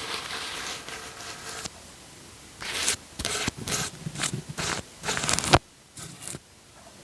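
Wet, sticky scraping and crackling of something handled right against the microphone: one longer rub, then a run of short bursts.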